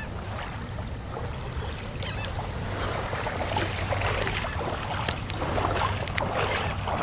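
Wind rumbling on the microphone over water lapping and splashing, growing louder about halfway through, with scattered small clicks.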